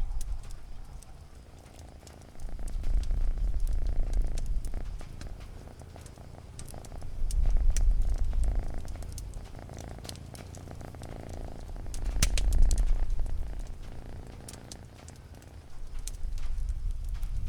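Domestic cat purring close up, rising and falling in slow swells about every four to five seconds, with the sparse crackle and pops of a wood fire behind it.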